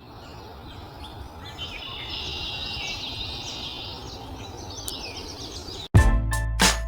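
Outdoor ambience with songbirds singing, a run of chirping notes over a steady background hiss. About six seconds in it cuts off abruptly and loud music with a beat starts.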